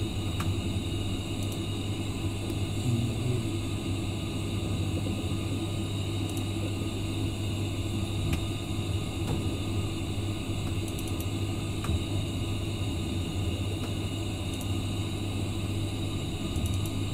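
Steady running rumble of a Qinghai–Tibet Railway passenger train, heard from inside the carriage, with a constant low hum and a few faint clicks.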